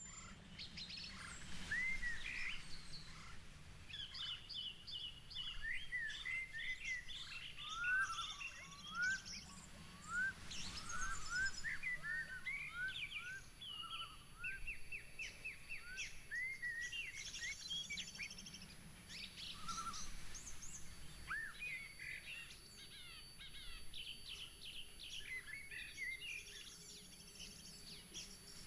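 Several small songbirds chirping and singing, with many short rising chirps and quick trills overlapping one another, over a faint steady low hum.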